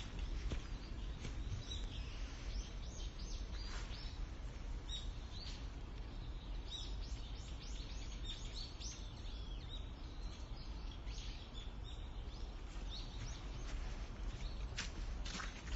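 Small songbirds chirping, many short high calls that come thickest in the middle, over a steady low rumble. A few sharp crackles come near the end.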